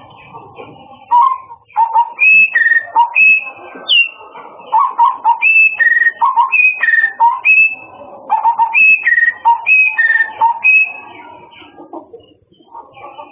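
A murai (Copsychus songbird) singing loud, clear whistled phrases: high notes that step down in pitch, repeated over and over, stopping about eleven seconds in. Softer calls sound underneath.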